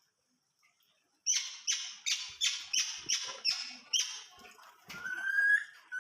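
A pet bird gives a rapid series of about eight harsh calls, starting about a second in, then one clear whistle that rises slightly near the end.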